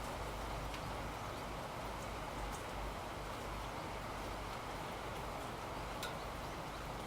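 Steady rain falling, an even hiss with a few faint drip ticks scattered through it.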